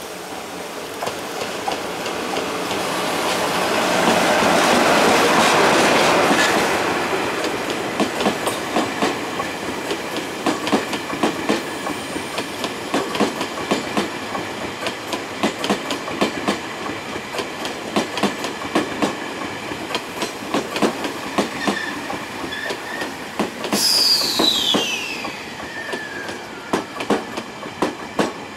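A freight train hauled by an EF66 electric locomotive, towing unpowered new 50070-series electric-multiple-unit cars, passes close by. Its noise swells to a peak in the first few seconds, then the wheels click steadily over rail joints. Near the end a high squeal falls sharply in pitch.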